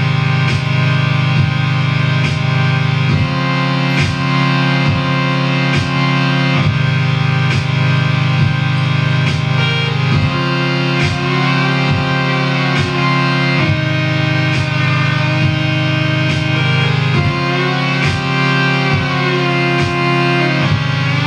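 Live rock music with guitar: a steady, loud low drone under sharp strikes about two a second, with no singing.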